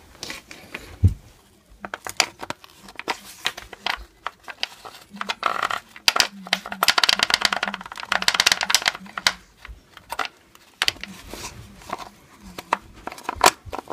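Clicking and rattling of small plastic and metal parts as an RC truck's gear and drivetrain are worked by hand and with a screwdriver. The clicks come scattered at first, then in a rapid run through the middle, then thin out.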